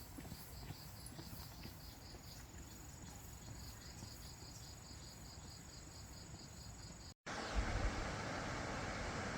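Insects chirping in a fast, even pulse with a thin steady high buzz over them. About seven seconds in this cuts to louder wind-like noise with a low rumble.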